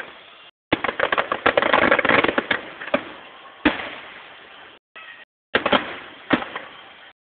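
Fireworks display heard from a distance: a fast string of crackling pops for about two seconds, then single sharp bangs, each trailing away. The sound drops out briefly between some bursts.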